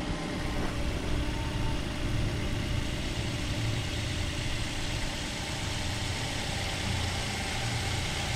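Toyota VVT-i petrol engine idling steadily with its radiator cap off, warming up so air can be bled from the cooling system and the radiator checked for leaks.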